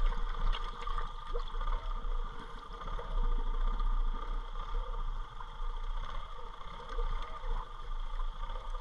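ATV engine running steadily at low speed as the machine wades through deep floodwater, with water churning around its tires.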